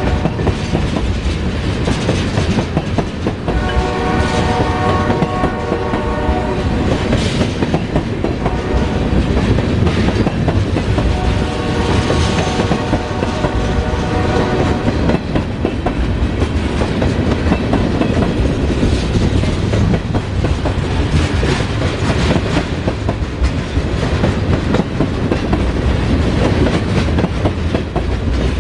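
BNSF oil train running past with a steady rumble and wheel clatter over the rail joints. The locomotive horn sounds at the very start, again about 4 s in and about 12 s in, each blast lasting about three seconds; after that only the rumble and clatter of the cars remain.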